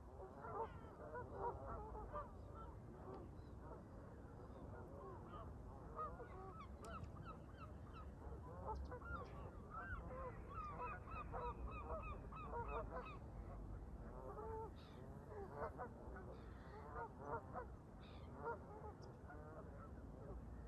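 A flock of Canada geese honking, many short calls overlapping one after another without a break, over a low steady rumble of wind.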